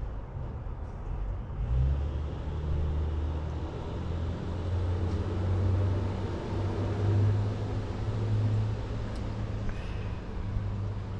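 A low, uneven outdoor rumble that swells and eases over several seconds.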